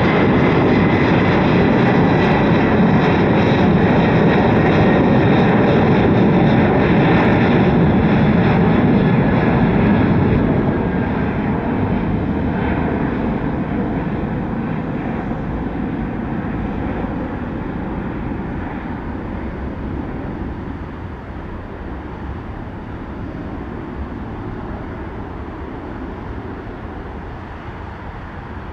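Departing jet airliner's engines on the climb-out: a loud rumble with faint high whining tones that drift slightly lower, steady for about ten seconds, then fading slowly as the plane moves away.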